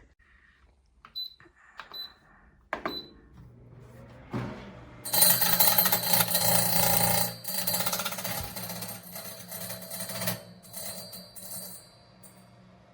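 Nuwave Bravo XL Pro air fryer toaster oven: three short beeps from its control panel, then a low motor hum starts. About five seconds in, a loud, noisy whirring begins and runs for about five seconds before dying down. The owner is unsure whether this noise is normal.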